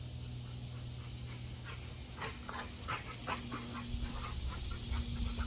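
A dog making a series of short, soft whining sounds, starting about two seconds in, over a steady low hum.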